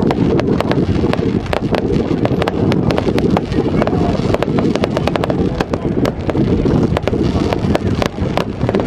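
Fireworks crackling and popping in quick, irregular bursts of many sharp cracks, over a steady low rumble of wind buffeting the microphone.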